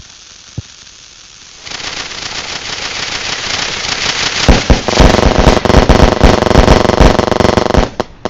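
Consumer firework going off: a dense crackling hiss builds from about two seconds in, then a rapid string of loud bangs and crackles from about halfway through, stopping shortly before the end.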